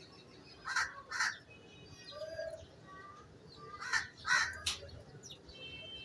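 Harsh bird calls, caws in two short runs: two about a second in and three about four seconds in. Faint thin chirps sound between them.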